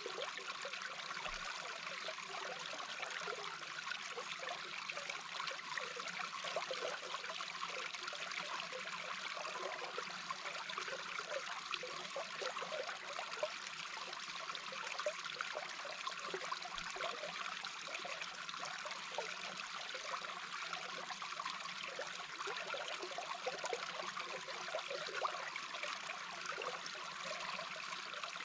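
Babbling brook heard with the microphone underwater: a steady wash of flowing water with fast, fine bubbling gurgles.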